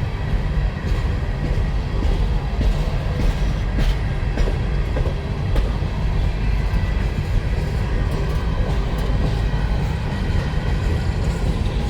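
Freight train of empty mine cars rolling past, wheels clattering over the rails with a steady, heavy low rumble.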